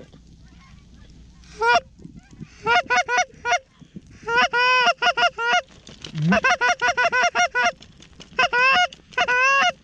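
Goose honking: quick bursts of short honks, each rising and falling in pitch, in clusters of three to eight notes. The honking starts about two seconds in and repeats several times.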